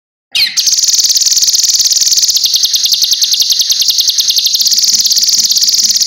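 Cucak kinoi bird singing: a short falling note, then one long, rapid, high-pitched trill that keeps a very even beat and breaks off near the end.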